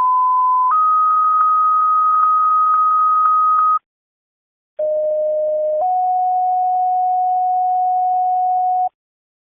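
Two two-tone sequential paging tone-outs over a fire dispatch radio channel. Each is a short steady tone that steps up to a longer, slightly higher tone, about four seconds in all. The second page starts about a second after the first and is lower in pitch. Such tones set off the pagers of the fire companies being dispatched.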